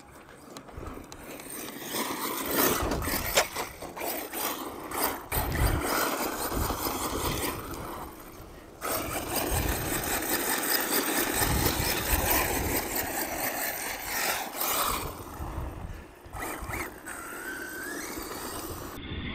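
Arrma Mojave 6S BLX brushless RC truck being driven hard over dirt and gravel: motor whine rising and falling with the throttle, tyre and gravel noise, and a few sharp knocks.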